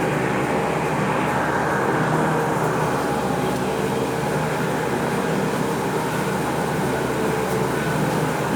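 Steady, dense machinery din of weaving looms running.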